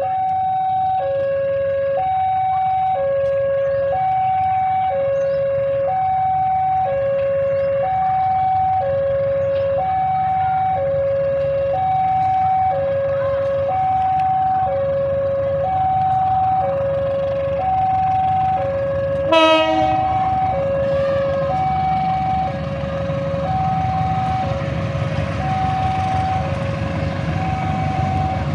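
Electronic two-tone warning alarm at a railway, sounding a low tone and a higher tone in turn, each held about a second, with a brief falling chirp about two-thirds of the way in. Near the end a rumble builds as the KA Majapahit train approaches.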